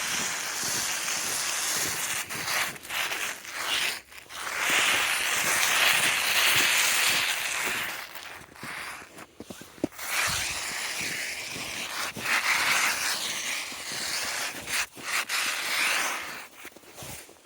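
Snow and ice being scraped off electric fence tape as a hand runs along it: a rough rustling scrape that goes on in long strokes with short breaks between them.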